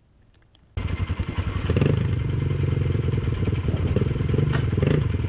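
Quad engine cutting in suddenly and running, climbing in revs a second later, then holding steady under throttle.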